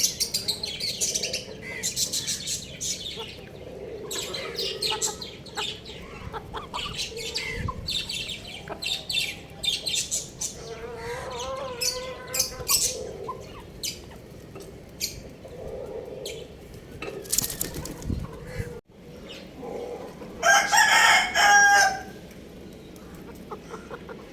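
Young rooster and chickens flapping their wings and clucking, with a short, loud crow near the end.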